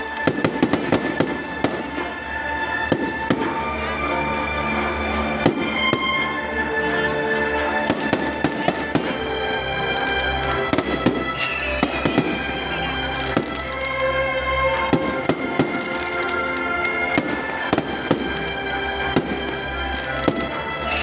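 Fireworks going off in many sharp, irregular bangs, densest in the first second, over music with long held notes.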